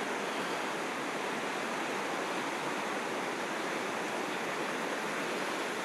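Belt Creek running in flood: a steady, unbroken rush of fast water.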